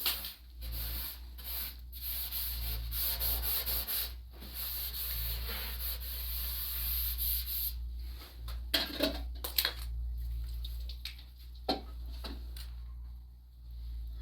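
Hand scrubbing or rubbing, steady strokes with short breaks, then a few sharp clicks and knocks in the second half.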